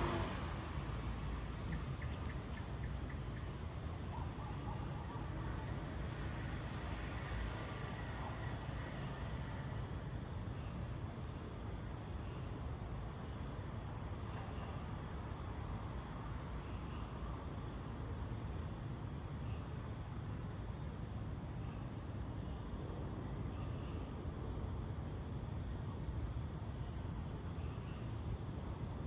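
A cricket trilling: a steady, high, fast-pulsing chirp that breaks off briefly now and then. Underneath is a low, steady rumble.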